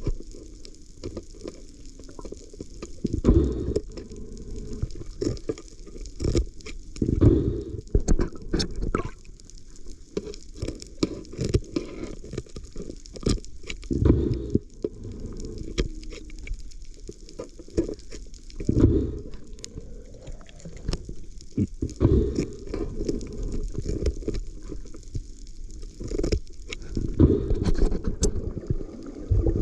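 Muffled sloshing and rushing water that swells every few seconds, with scattered sharp clicks and taps.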